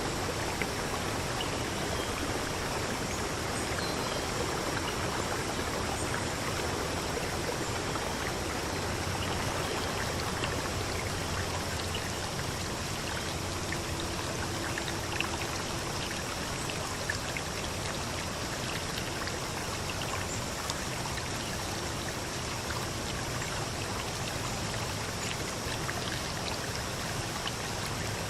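Running water, a steady even rush like a stream, with scattered small splashes and drips.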